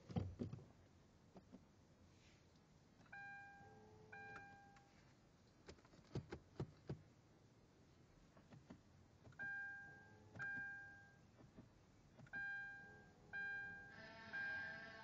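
Hyundai Genesis Coupe's dashboard warning chime dinging in pairs of steady tones, each ding fading quickly, repeated several times while the car will not start. A few sharp clicks come about halfway through.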